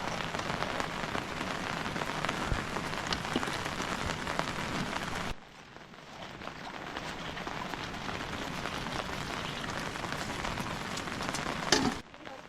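Steady rain falling, an even hiss with scattered small drop taps. About five seconds in the sound drops away suddenly and then builds back up, and near the end there is a single sharp tap.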